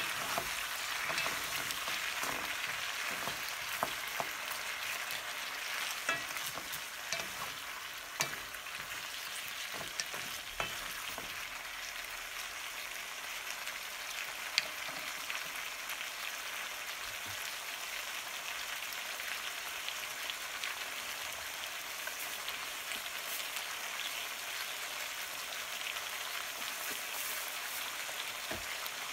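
Potato wedges and vegetables sizzling in oil in a frying pan, a steady hiss. Wooden spatulas turn them at first with scattered knocks and scrapes, and after about ten seconds the food fries on undisturbed.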